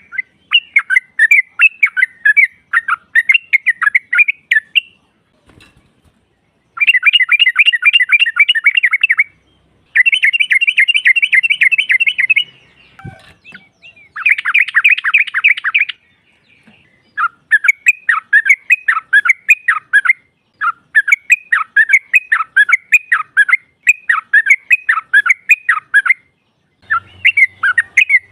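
Yellow-vented bulbul (trucukan) calling: loud bouts of rapid chattering notes, each a few seconds long, with short pauses between.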